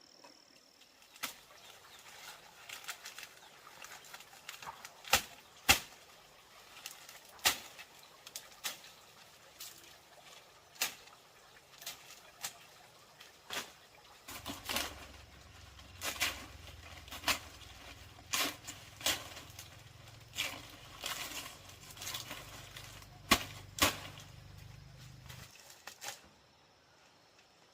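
A run of irregular sharp knocks or taps, roughly one or two a second, the loudest pair about five seconds in. A low steady hum joins halfway through and stops a couple of seconds before the end.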